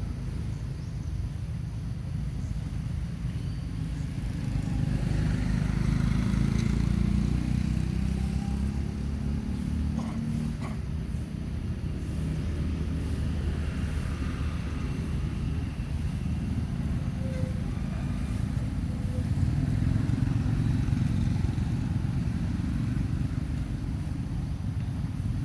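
Steady low rumble of motor vehicle traffic, swelling louder a couple of times as vehicles pass.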